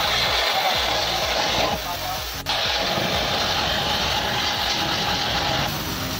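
Vehicle engine running steadily under a hissing noise, with voices in the background.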